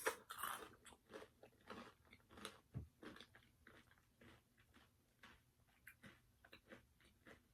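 Faint close-miked chewing of a mouthful of fried chicken skin with mashed potatoes and gravy: crunchy bites and wet mouth clicks. The crunching is busiest in the first few seconds and thins to scattered soft clicks after that.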